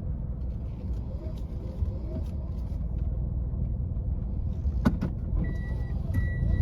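Car engine running with a steady low rumble. About five seconds in there is a sharp click, then a high electronic beep starts repeating at an even pace: the car's reverse warning beeper, sounding as the car is put into reverse to park.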